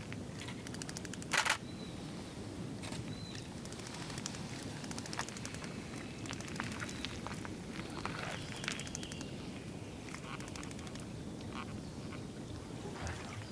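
Scattered short, high bird calls over a steady low background rumble, with one brief, sharp burst of noise about a second and a half in.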